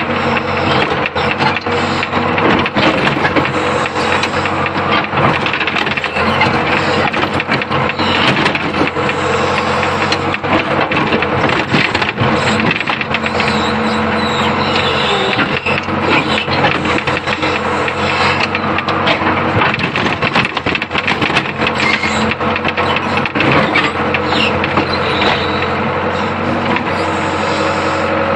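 Old Hitachi UH025 excavator's diesel engine running steadily, with frequent knocks and clatter from the working machine.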